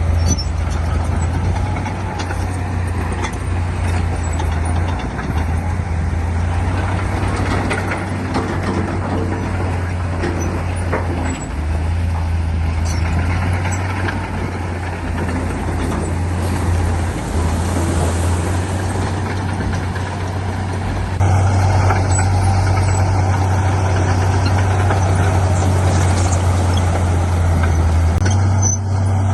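Heavy earthmoving equipment's diesel engine running with a steady low drone and clattering machine noise, growing louder about two-thirds of the way through.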